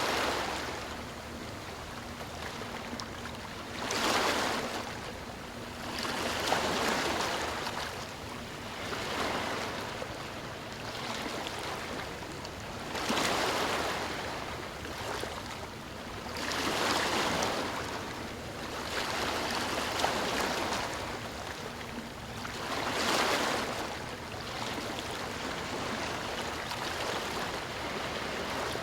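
Ocean waves washing onto a shore, with a wave surging in every few seconds over a steady background wash.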